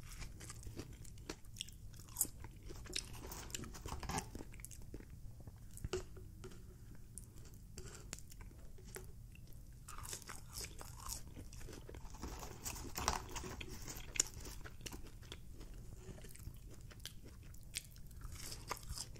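Quiet, close-up chewing of a crispy fried-chicken sandwich, with irregular crunches and small wet mouth clicks.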